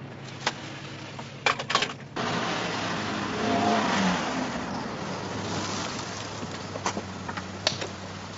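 A car: a few sharp knocks in the first two seconds, then the car's engine and tyre noise swell suddenly as it pulls away, rising to a peak and then running on more steadily, with two more knocks near the end.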